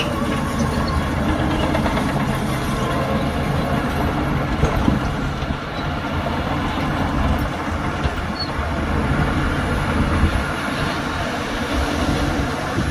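Heavy earthmoving machinery running: a steady, low diesel rumble.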